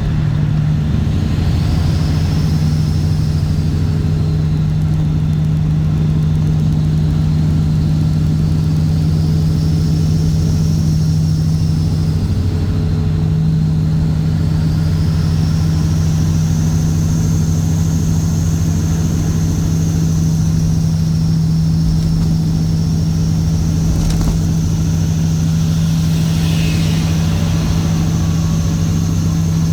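Straight-piped Caterpillar C15 ACERT inline-six diesel in a Kenworth W900 running under way, a steady low drone with little change in engine speed. A faint high whistle rises and falls over it.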